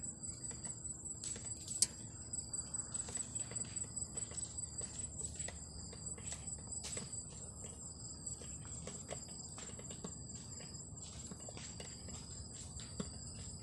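Insects chirping in a steady run of high-pitched pulses, several a second, with a single sharp click about two seconds in.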